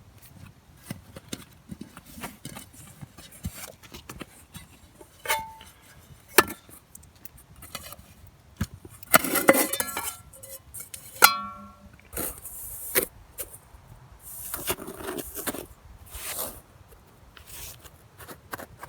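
Scattered knocks and clicks of camp gear being handled, with a couple of ringing metallic clinks and short bursts of rustling.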